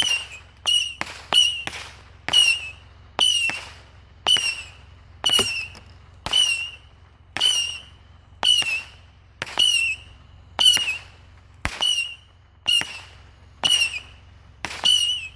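100-shot Saturn missile battery firing a steady string of shots, about one to two a second, each a short high whistle with a sharp crack.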